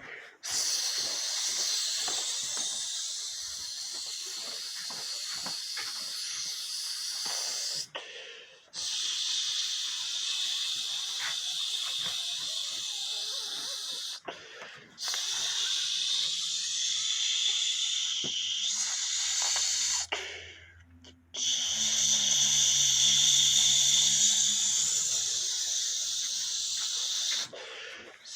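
A person imitating escaping steam with their mouth, making long, even hisses of five to seven seconds each, four times over, with short breaks between them.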